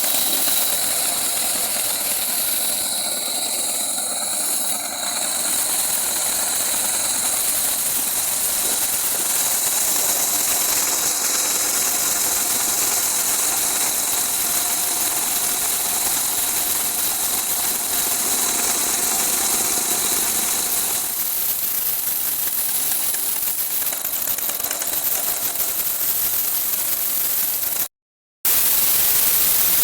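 Steady mechanical running noise with a hissing, rattly texture and a faint high whine held throughout; it cuts out briefly near the end.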